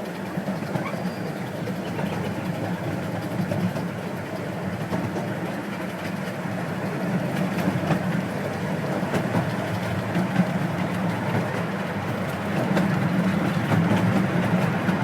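A 12-inch gauge steam locomotive and its train running along the track in a steady rumble, getting louder about two-thirds of the way through.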